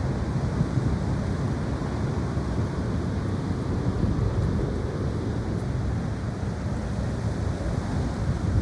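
High wind blowing across the microphone, a steady low rumble without distinct knocks or tones.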